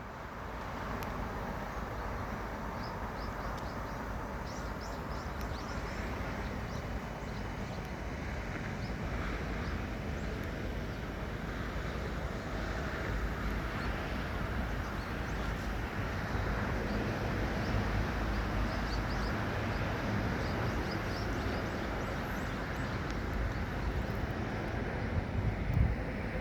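Outdoor seaside ambience: a steady rush of wind and waves, strongest in the low end, with faint, short, high bird chirps scattered through.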